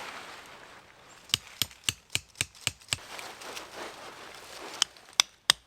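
Tent stake being hammered into hard ground: a run of about seven sharp knocks at roughly four a second, then three more near the end.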